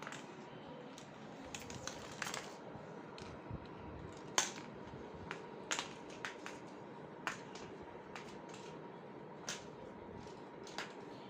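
Light, irregular taps and clicks, scattered a few seconds apart over faint room noise, the loudest about four and a half seconds in: a kitten playing with mice.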